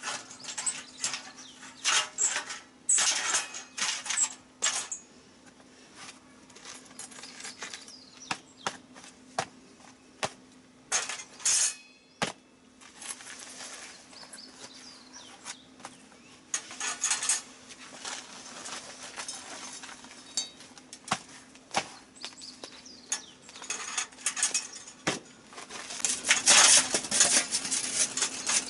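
Metal cooking utensils clinking and scraping against a pan in irregular clicks and short scrapes, getting busier and louder near the end as the food is stirred.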